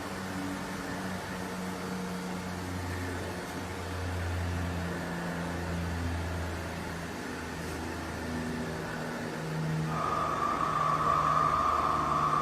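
HDPE pipe butt fusion welding machine running, a steady mechanical hum whose low tones shift in pitch. About ten seconds in, a steady high whine joins it and the sound grows louder.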